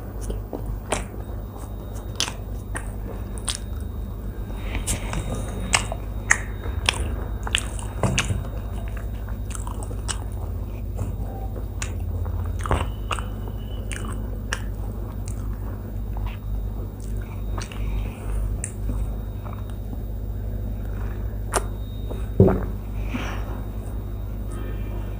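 Close-miked chewing and mouth sounds of a person eating by hand from a steel thali, with scattered sharp clicks and taps, the loudest near the end, over a steady low hum.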